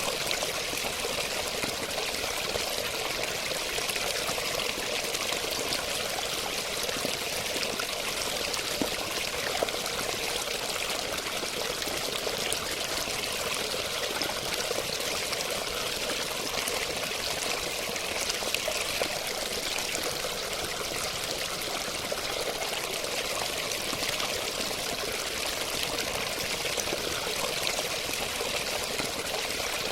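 Water flowing and splashing steadily, with a hissing, fairly bright sound and no let-up.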